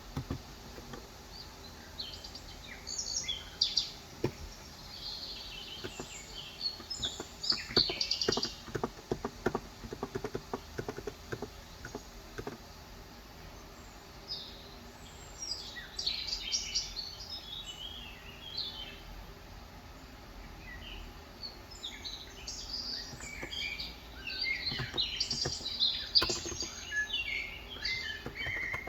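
Birds chirping and singing throughout, with runs of typing on a Cox Endeavor 35 g electrostatic capacitive tenkeyless keyboard: quick keystroke clicks, busiest in the first half and again near the end.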